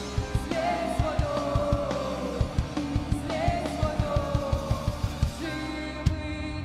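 Worship-band rock music: a fast drum-kit beat under guitars and a gliding lead melody.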